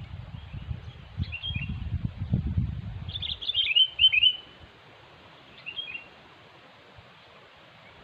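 Sooty-headed bulbul giving three short bursts of quick, bubbly chirping notes, the loudest about halfway through. A low rumbling noise runs under the first half.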